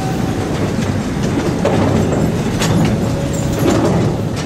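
Amusement-park train rolling along its track, heard from an open-sided passenger car: a steady rumble with a few spaced clacks as the wheels cross rail joints.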